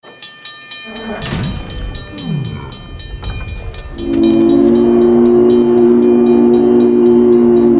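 A train running with rapid, even clicking, then about halfway through a long, steady blast of a three-chime steam whistle: the low, deep chord of NC&StL 576's long-bell whistle, which is the loudest sound.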